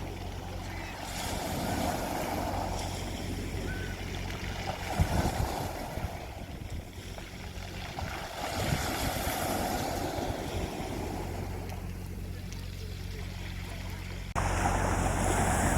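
Sea waves breaking and washing up the shore, swelling and fading every few seconds, with low gusts of wind on the microphone. About a second before the end it cuts suddenly to a louder take of surf.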